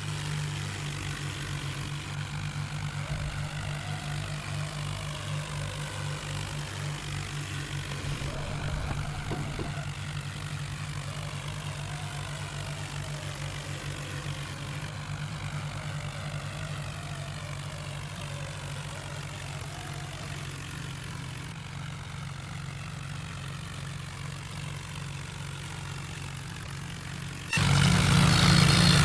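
Tractor diesel engine running steadily with a low pulsing beat, becoming suddenly much louder near the end.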